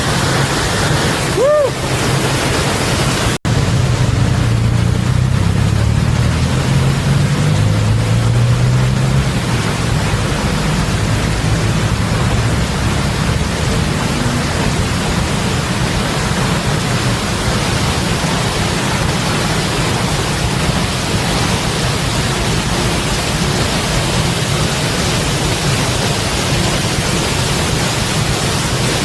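Large waterfall pouring steadily, a loud, even rush of falling water with a heavy low rumble. It breaks off for an instant about three seconds in.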